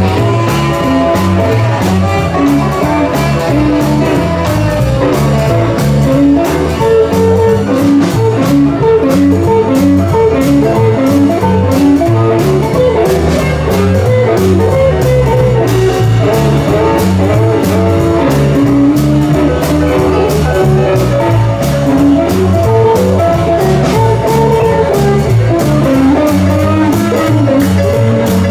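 A live band playing an instrumental passage with guitar lead, bass and drums, in a swinging blues style.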